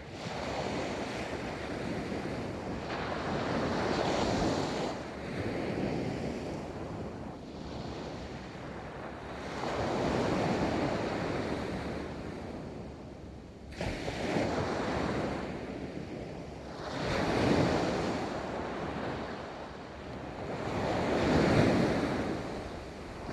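Ocean surf rolling in and breaking on a beach, the wash swelling and easing every three to four seconds.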